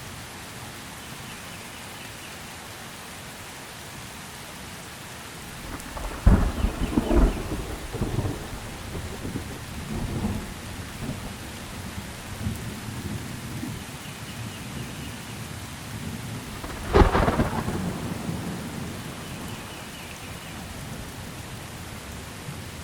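Steady rain with thunder: a sharp crack about six seconds in that rolls on as a rumble for several seconds, then a second sharp crack near the seventeen-second mark that dies away slowly.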